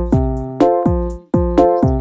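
Background music: an electronic track with held keyboard chords over a steady kick-drum beat, about two beats a second.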